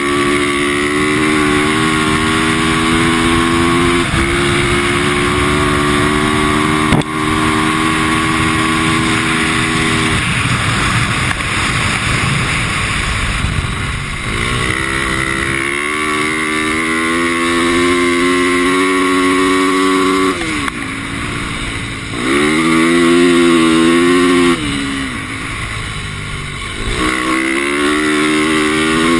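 450cc four-stroke dirt bike engine running at a steady pitch, easing off for a few seconds, then revving up and dropping back in three surges, the loudest about two-thirds of the way through. A steady rushing noise runs underneath.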